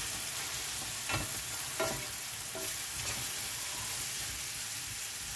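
Mushrooms sizzling in hot butter in a stainless steel frying pan, stirred with a wooden spatula that knocks against the pan a few times.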